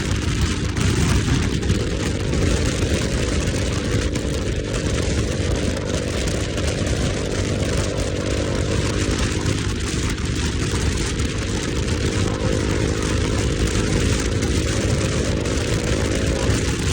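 Motorcycle engine running under way, with wind noise over the microphone. The engine note climbs over the first couple of seconds, eases off about eight seconds in, then climbs again.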